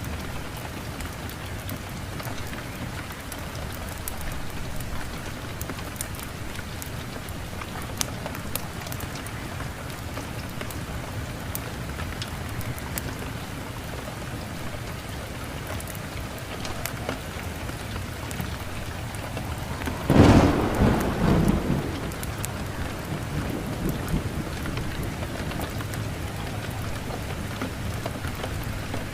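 Steady rain with scattered sharp crackles from a fireplace fire. About two-thirds of the way through, a loud thunderclap breaks out and rumbles away over a couple of seconds.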